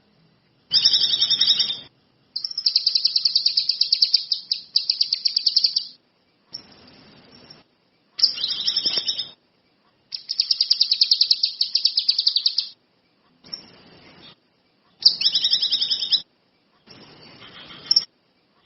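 A kinoi songbird singing in full voice: short high chirping phrases alternate with longer fast, rattling trills of two to three seconds, with short pauses between them.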